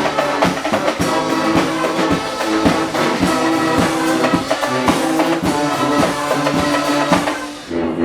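Guggenmusik carnival band playing: loud brass (trumpets and trombones) over a steady drum beat. The music breaks off shortly before the end.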